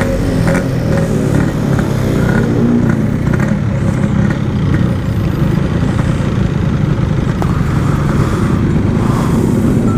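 Yamaha RX-King's 135cc two-stroke single-cylinder engine running steadily under way, heard through its aftermarket Packing Power exhaust.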